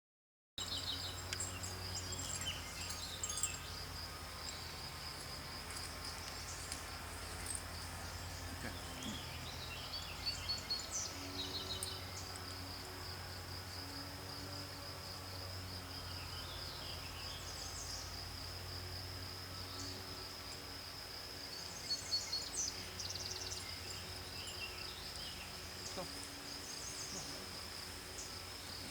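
Insects trilling steadily in a high continuous tone, with a few brief, higher chirps scattered over it and a low hum underneath.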